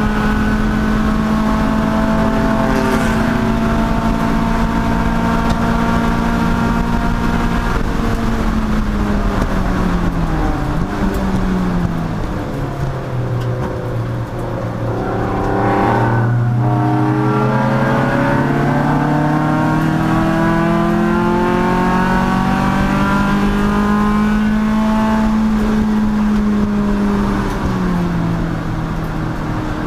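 Race car engine under load on a circuit: it holds steady high revs, drops as the driver lifts and slows for a corner, then climbs steadily as the car accelerates out, and drops again near the end.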